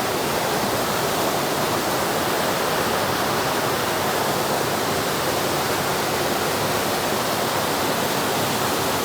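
Waterfall pouring steadily onto rocks, a constant rushing of water.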